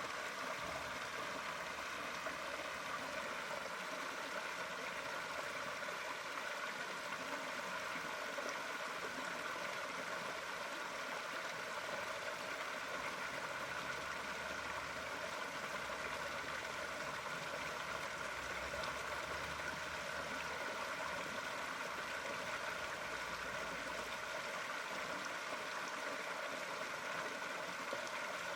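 Flowing water running steadily, an even babbling wash with no breaks or changes.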